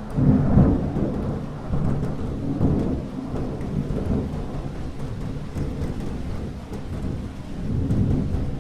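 Thunder rumbling in a rainstorm: a low rumble breaks in suddenly and rolls on, swelling again about a third of the way in and near the end, over steady rain.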